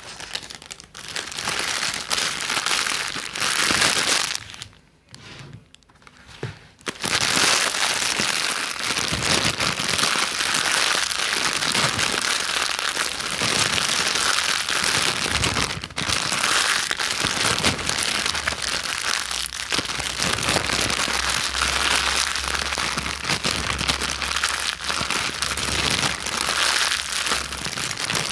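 Close-miked ASMR crinkling and crackling, in short bursts at first, then dense and continuous from about seven seconds in.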